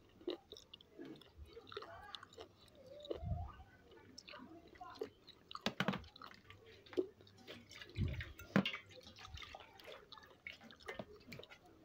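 Wet chewing and lip-smacking while eating oysters, with many small scattered clicks. There are two dull thumps, about three and eight seconds in.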